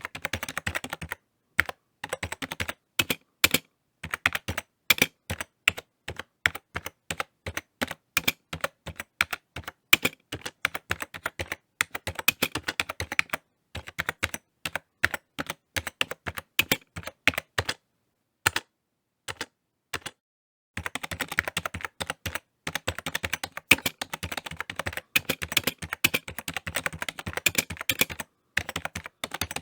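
Typing on a computer keyboard: irregular runs of key clicks, at times slow and spaced, at times rapid, broken by short pauses. There is a longer pause with only a couple of isolated keystrokes about two-thirds of the way through, then a fast, dense burst of typing.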